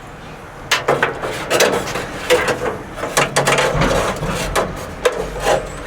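Irregular metallic clicks, clunks and rattles of a restored van window regulator mechanism being handled and worked.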